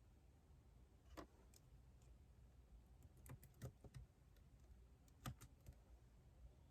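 Faint, scattered keystrokes on a computer keyboard, a few at a time with pauses between, over a low steady room hum.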